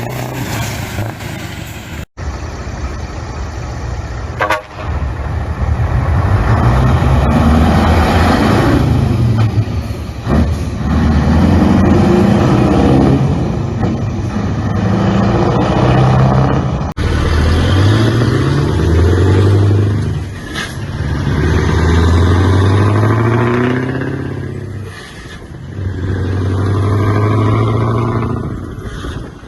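Scania V8 truck engine through open exhaust pipes, loud, its pitch rising and falling several times as it revs up and drops back. The sound changes abruptly about two seconds in and again past the middle, as one recording gives way to the next.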